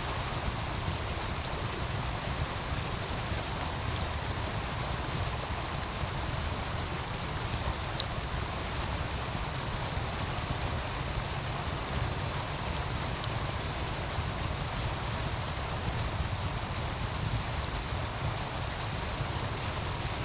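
Outdoor wood fire crackling with scattered sharp pops, the loudest about eight seconds in, over the steady rush of a meltwater stream.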